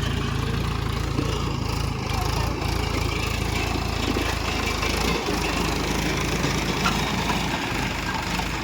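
Tractor engine running steadily under load while pulling a cultivator, a low, even drone with rough, noisy clatter over it.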